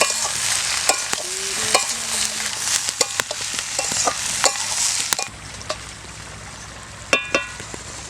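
Vegetables sizzling in hot oil in a pan while a spatula stirs and scrapes them, with scattered clicks of metal on the pan. About five seconds in the sizzling drops away, and near the end there is a short ringing clink.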